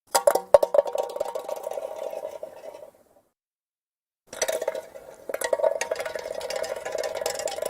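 Tin soda can rolling on asphalt: it starts with a few sharp clinks, then rattles and rings as it rolls away, fading out about three seconds in. After a second of silence a second roll begins, with a couple of louder clinks, and keeps going.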